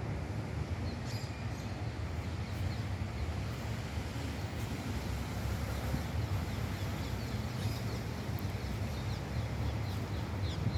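Faint, short, high bird chirps scattered every second or two over a steady low rumble.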